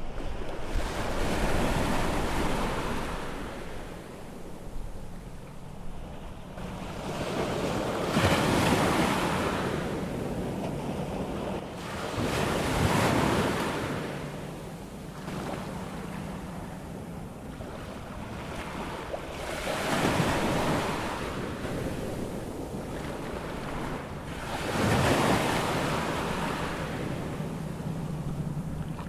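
Atlantic surf on a sandy beach on a rising tide: waves break and wash in about five times, each swell of noise building and fading over a few seconds, with wind buffeting the microphone.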